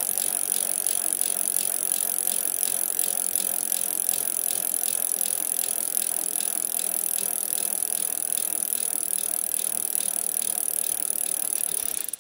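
Bicycle sound effect: steady, very rapid ticking with a rattle and hiss, like a freewheel ratchet as the bike rolls along. It cuts off suddenly at the end.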